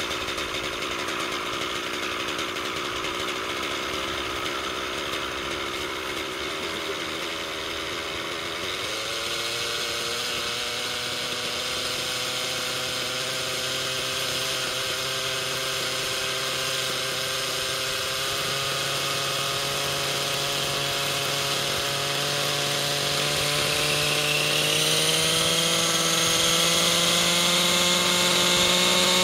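Nitro glow engine of a 700-size model helicopter running continuously, with a buzzing engine note. It steps up in pitch about nine seconds in and climbs higher again near the end as it spools up. The owner is recording it because of an abnormal noise.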